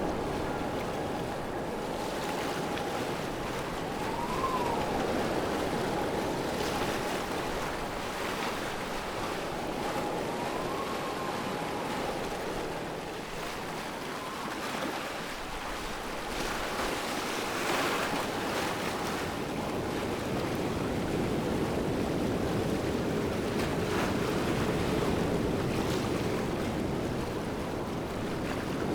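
Waterfall rushing steadily, with a few faint rising-and-falling bird whistles over it.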